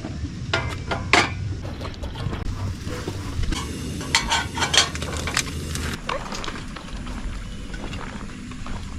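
Clusters of light clinks and clatter, like utensils or cookware being handled: a few about a second in, and a denser run around four to five seconds in. Under them runs a steady low rumble of wind on the microphone.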